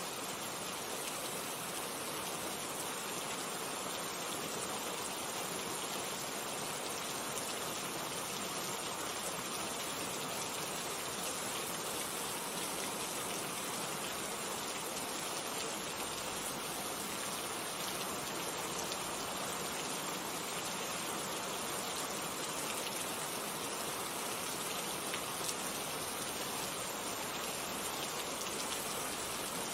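Steady rain, an even hiss of falling drops with faint individual drop ticks.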